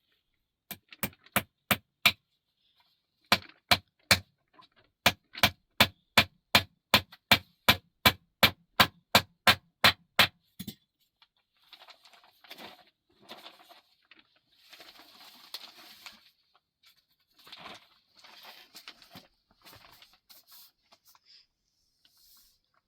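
Hammering in three runs of sharp, evenly spaced blows, about two or three a second, the last run the longest. After that comes quieter scraping and rustling of handled material.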